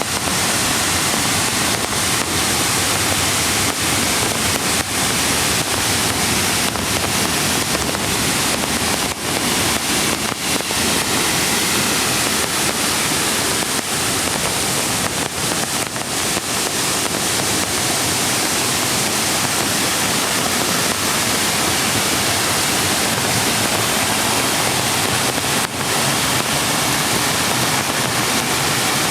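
Mountain creek water rushing over rocks: a loud, steady rush of water with no break.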